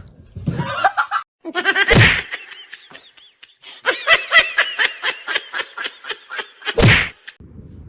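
A person laughing hard in several runs, the longest a rapid string of about six laughs a second, with louder outbursts about two seconds in and near the end.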